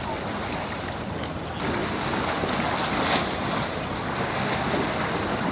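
Waves surging against an inlet jetty with wind noise, a steady rush that grows louder about a second and a half in.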